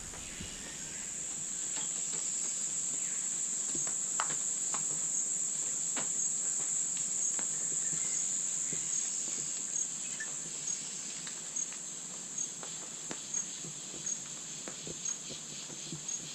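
Chorus of rainforest insects: a steady high-pitched drone with faint pulses about twice a second, and scattered light clicks.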